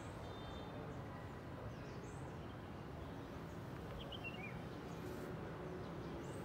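Steady outdoor background noise with a few faint, short bird chirps, about two seconds apart.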